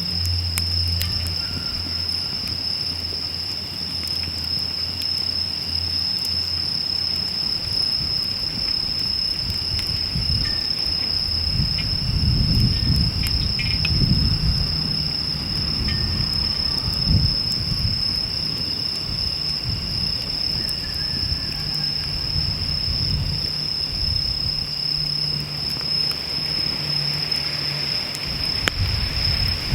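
An insect trilling in one steady high tone without a break, over the faint snaps of a wood fire burning in a fire stand. A low rumble swells for a few seconds around the middle.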